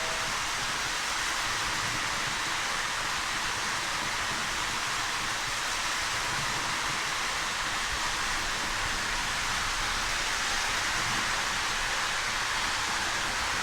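A steady, even hiss with no puffing rhythm or other sounds in it.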